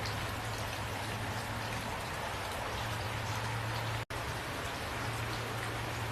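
Steady rain falling, with scattered drops heard as small ticks over a steady low hum. The sound cuts out completely for an instant about four seconds in, then resumes.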